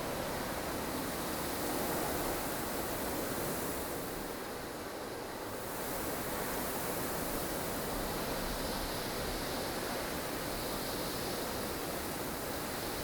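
Blustery snowstorm ambience: strong wind blowing as a steady rushing noise, easing slightly for a moment about five seconds in.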